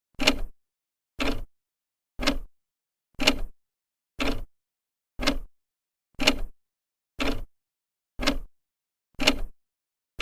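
Old clock ticking, its second hand stepping once a second with a sharp click.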